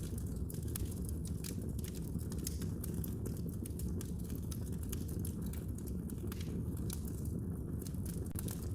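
Fire in a fireplace crackling, with frequent short snaps and pops over a steady low rumble.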